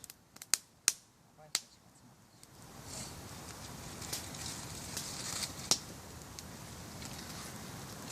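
Wood campfire crackling: a few sharp, separate pops over a steady hiss that grows louder about two and a half seconds in.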